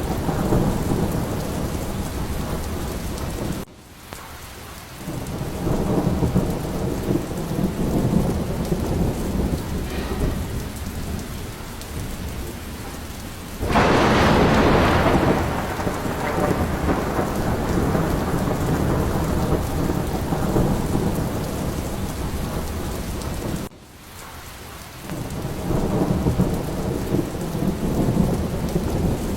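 Thunderstorm: steady heavy rain with low, continuous rolling thunder, and one louder, sharper thunder burst about halfway through that lasts about two seconds. Twice the sound drops off abruptly and swells back over a couple of seconds.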